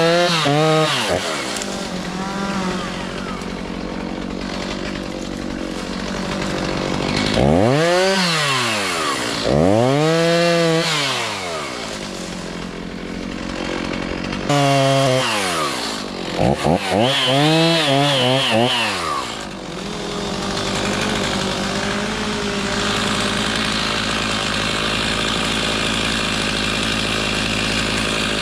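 Gas chainsaw revving up and back down several times, then running steadily from about two-thirds of the way through, as in felling a hardwood.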